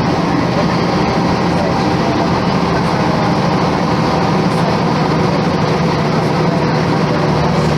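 Volvo B10M bus's mid-mounted diesel engine running steadily at an even pitch, mixed with rolling and body noise.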